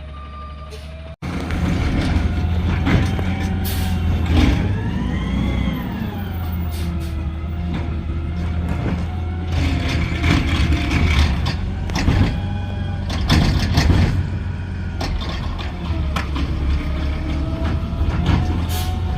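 Garbage truck running at close range: a heavy engine rumble with a whine that rises and falls in pitch, and repeated clanks and knocks. The sound starts abruptly about a second in.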